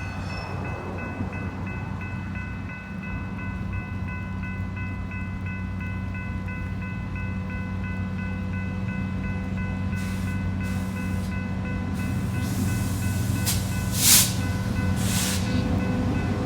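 Genset switcher locomotive running steadily while it backs up to couple onto a string of grain cars. From about ten seconds in come several short hisses of air, the loudest a sharp blast just after fourteen seconds.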